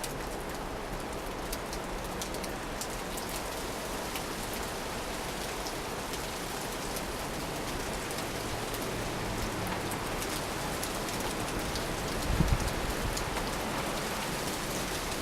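Steady rain falling, a continuous hiss with scattered drop ticks, during a winter nor'easter before the changeover to snow. A brief low rumble stands out about twelve seconds in.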